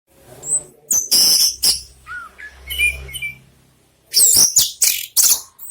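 Orange-headed thrush singing short, varied phrases of high whistles and quick notes, with a softer lull in the middle and a loud run of notes near the end.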